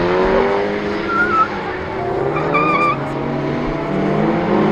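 Drift cars on a figure-eight pad, several engines revving up and down over one another, with two short high tyre squeals near the middle.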